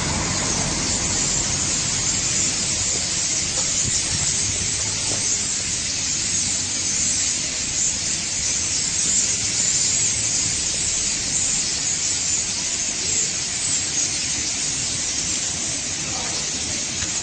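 Dense chatter of a large flock of small birds in a tree, merging into a steady high hiss with no single calls standing out.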